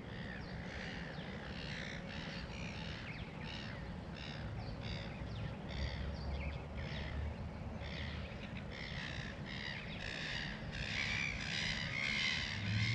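Birds calling in a long run of short, harsh, caw-like calls, several a second, getting louder near the end.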